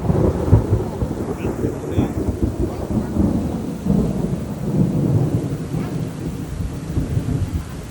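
Thunder rolling in a long low rumble that swells and fades in waves, with rain falling steadily.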